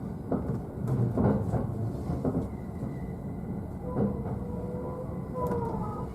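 Interior running noise of a JR East E531 series train, heard from the upper deck of a bilevel Green car: a steady rumble with irregular knocks as the wheels pass over rail joints. A faint whine comes in about four seconds in.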